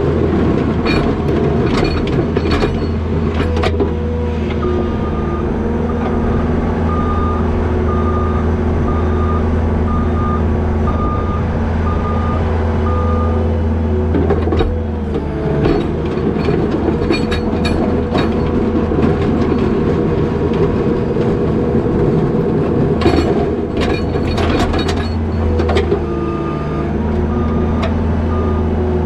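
New Holland L220 skid steer's diesel engine running hard while plowing, its pitch dropping and rising again as it changes direction. A backup alarm beeps steadily through two reversing passes. Bunches of sharp knocks and clanks come from the machine and plow.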